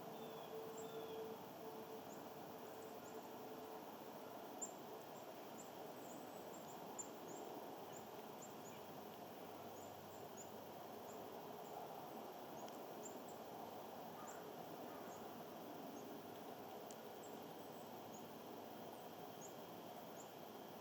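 Outdoor ambience with small birds giving short, very high, thin call notes, many times at irregular intervals, over a steady background hum. A faint steady drone is heard in the first few seconds, and a couple of light clicks come around the middle.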